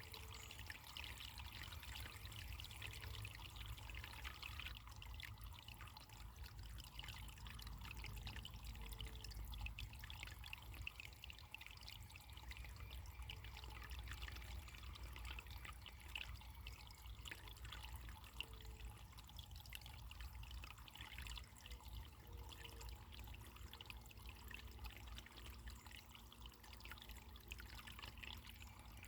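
Running water trickling steadily, faint, with a low rumble beneath it.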